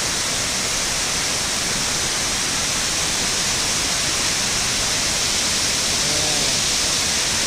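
Waterfall pouring: a loud, steady hiss of falling water that does not change.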